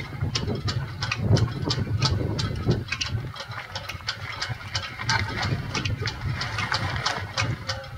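Gale-force wind gusting with a steady low rumble, over many irregular sharp clicks and rattles.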